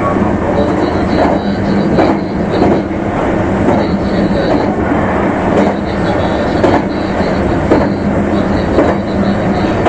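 Meitetsu limited express train running along the line: a steady rolling rumble with the wheels clicking over rail joints about once a second.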